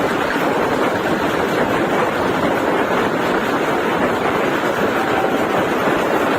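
Passenger train running at speed: a steady rushing noise of wheels on rail and moving air, with no clear rhythm.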